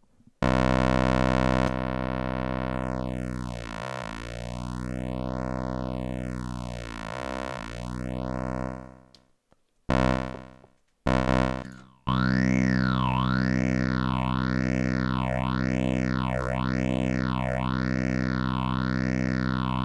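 A sustained, buzzy modular-synthesizer tone run through phaser effects. At first a slow, uneven phaser sweep moves through the sound. It breaks off after about nine seconds, and two short notes follow. From about twelve seconds a faster, regular phaser sweep with feedback rises and falls about once a second, with a whistling resonance.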